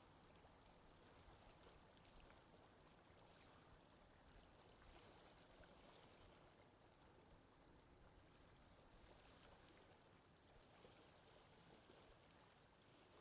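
Faint, steady water sound, a low wash of gentle lapping and trickling with a few small ticks.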